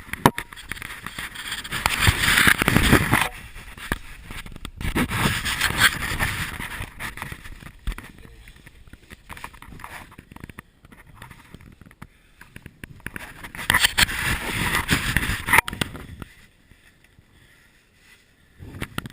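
Clothing and gear scraping and rustling against rock as a person crawls through a cave passage, in three long bursts with scattered clicks and knocks in between.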